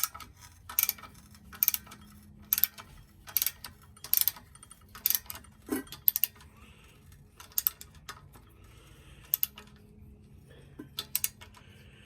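Ratchet wrench tightening a vise mounting bolt: short bursts of clicking about once a second, growing sparser in the second half.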